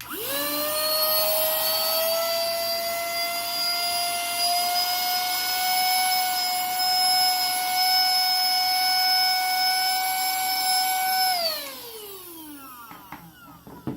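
Fanisic mini cordless handheld vacuum switched on and sucking up shavings from a table. Its high-speed motor spins up almost instantly to a steady high whine over rushing air and runs for about eleven seconds. It is then switched off, and the whine falls away as the motor winds down.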